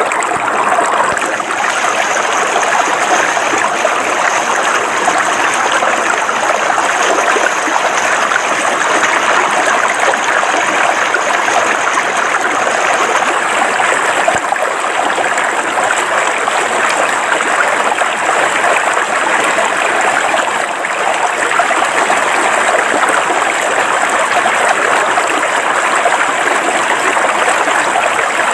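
River water flowing over rocks, a steady, even rush and babble of running water.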